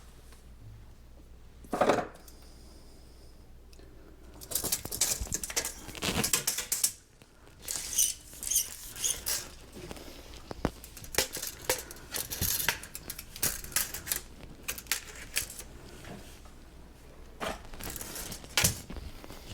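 Plastic drain pipe and fittings being handled and knocked together: irregular clicks, knocks and scrapes, with one loud knock about two seconds in.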